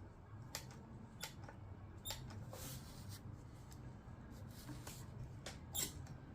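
Scattered small clicks, taps and scrapes of hand tools and metal parts as a small engine's carburetor is handled and worked on at the bench. A faint steady low hum lies underneath.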